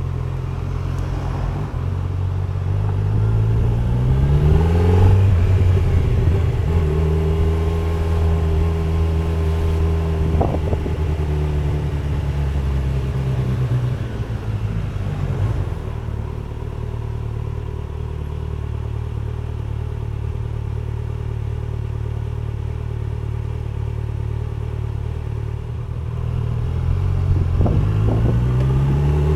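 2025 Kawasaki Z900's inline-four engine running: it speeds up over a few seconds, holds steady, eases off to a lower steady speed, and speeds up again near the end.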